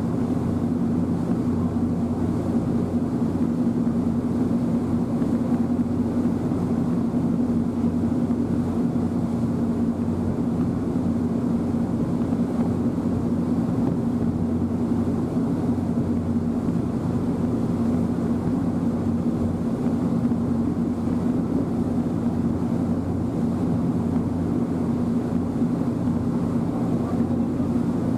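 Passenger ferry's engine running steadily on board, a constant low drone with a steady hum that does not change in pitch.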